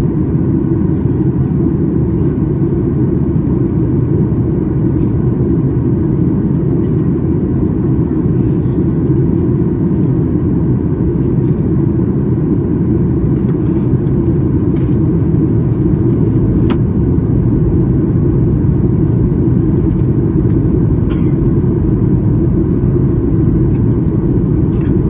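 Steady cabin noise of a Boeing 737 MAX 8 airliner in flight: a constant low roar of its CFM LEAP-1B engines and rushing air heard from inside the cabin, with a faint click about two-thirds of the way through.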